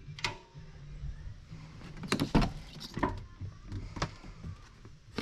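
A series of sharp clicks and knocks, the loudest cluster about two seconds in, over a low steady hum: hard objects being handled and set down.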